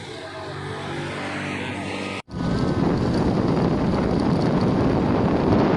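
Motorcycle engine running steadily while riding. After a brief cut about two seconds in, a louder rush of wind over the microphone covers it.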